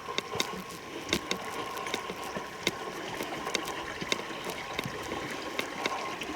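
Footsteps on a forest trail, irregular crunching steps about one or two a second, over a steady background hiss.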